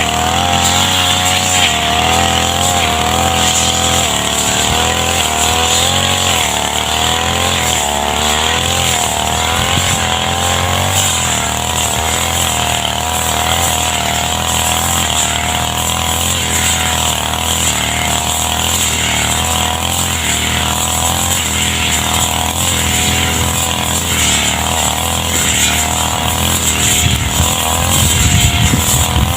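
Petrol brush cutter running continuously while cutting grass, its engine pitch wavering up and down as the load changes.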